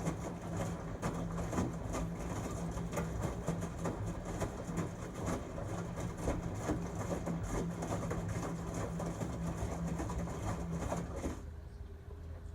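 LG Tromm WD-CR101C front-loading drum washing machine running its quick-wash cycle: a steady motor hum with continuous clatter and swish from the turning drum. About eleven seconds in the drum stops, leaving a quieter low hum.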